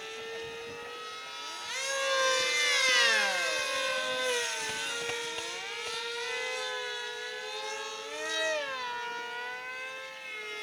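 Several RC model airplanes' motors and propellers whining together, each pitch sliding up and down as the planes change throttle and pass by. They are loudest about two to three seconds in, with another swell near the end.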